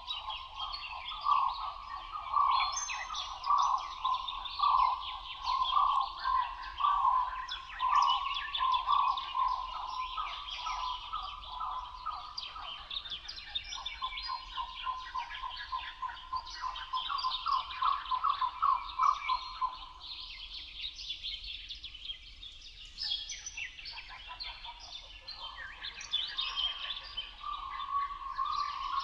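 A chorus of birds calling together. One bird repeats a note over and over, about every three-quarters of a second; it stops about two-thirds of the way through and starts again near the end. Other birds chirp and twitter at a higher pitch throughout.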